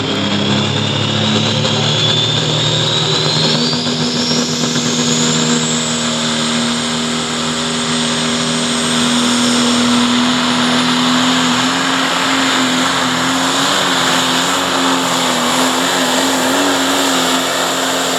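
Pro Stock John Deere 5020 pulling tractor's diesel engine running flat out under load on a full pull, steady throughout, with a high whine climbing in pitch over the first five seconds.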